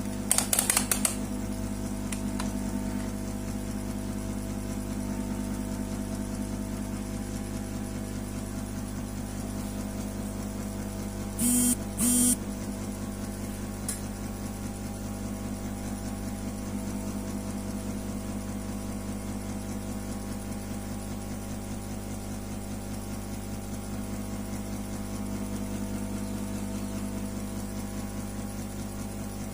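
A steady machine hum with a fine, rapid pulse. There are a few sharp clicks near the start and two short, loud bursts about twelve seconds in.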